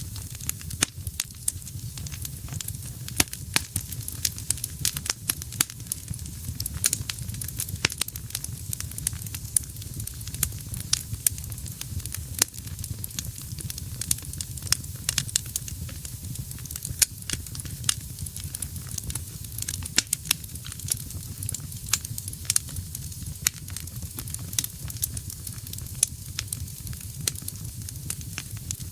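Wood fire burning in a fireplace: a steady low rumble of flame and a high hiss, with frequent irregular crackles and sharp pops of burning logs.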